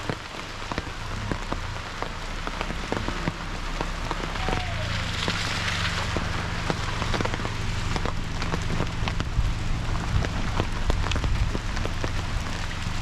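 Steady rain falling, with many separate drops striking close by, over a low steady hum.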